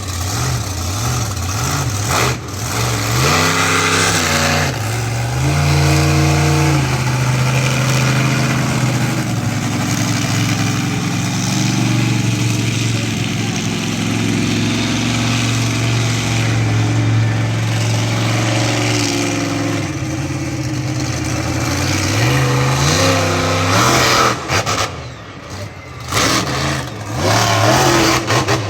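Monster truck engine revving and idling, its pitch stepping and gliding up and down and holding steady for a stretch, then a run of short, sharp throttle blips near the end.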